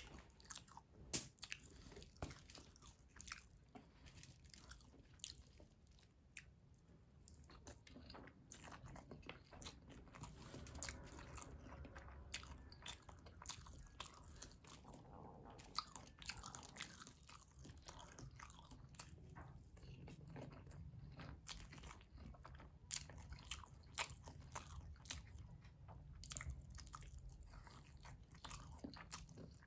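Mouth sounds of a person eating mutton biryani by hand: chewing and many short sharp clicks and smacks throughout, coming more often in the second half.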